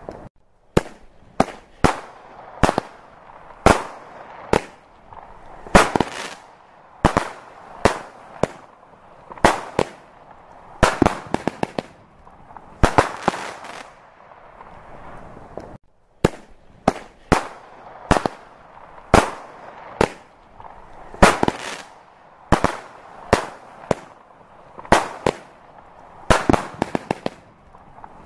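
Fireworks display bursting: a steady run of sharp bangs, about one or two a second, with quick crackling strings of pops among them a little before halfway and near the end.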